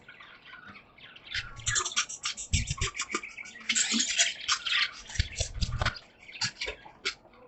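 A flock of budgerigars chattering in a cage: rapid, dense runs of short high chirps and warbles, with a few low thuds in between.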